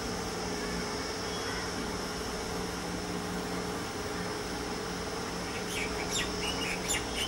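Steady background hum with a faint, steady high tone. From about two-thirds of the way through come short, high chirps of small birds.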